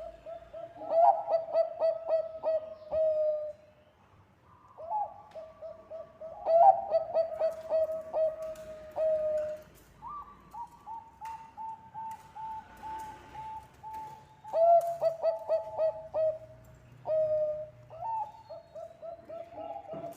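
Perkutut bangkok (zebra dove) cooing in repeated phrases. Each phrase is a run of quick, clipped coos that ends in a held note, and one phrase near the middle is pitched a little higher.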